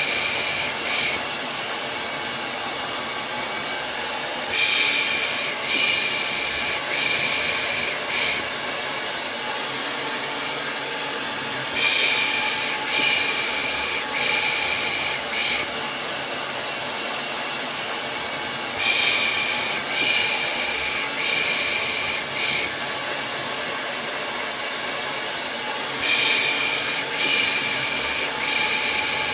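Hair dryer running steadily as white noise, overlaid with a rhythmic 'pış pış' shushing used to soothe a baby to sleep: about four shushes a second apart, repeating in groups roughly every seven seconds.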